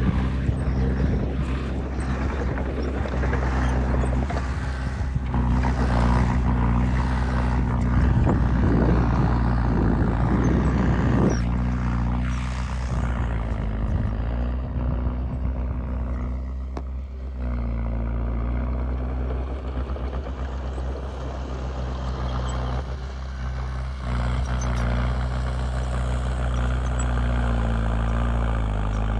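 Heavy diesel earthmoving machinery running steadily, with a loud rushing, rattling noise for a few seconds around the middle that stops abruptly, then the engine runs on with its note shifting briefly.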